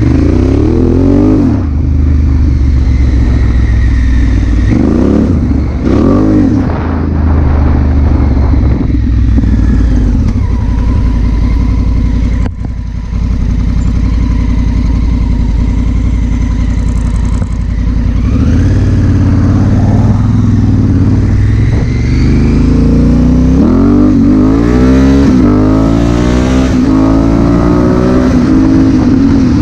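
Honda Africa Twin CRF1000L's parallel-twin engine under way, revving up again and again as it pulls through the gears, with a brief drop in the middle. Heard through a GoPro on the rider's helmet, with wind noise beneath.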